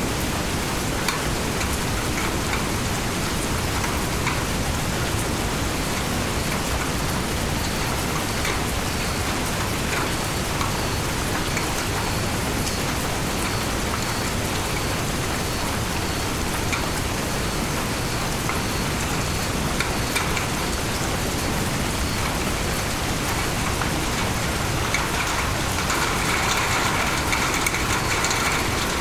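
Steady heavy rainfall, with many individual drops ticking on leaves and surfaces. Near the end the rain grows a little louder and brighter.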